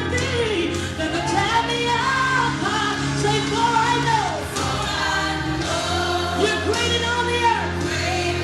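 Live gospel worship music: a solo singer's melismatic lines over a choir and band holding sustained chords.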